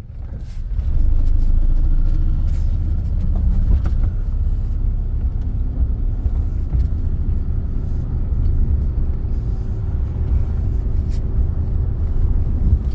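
Car driving with a window rolled down: a steady low rumble of road and wind noise that gets louder about a second in.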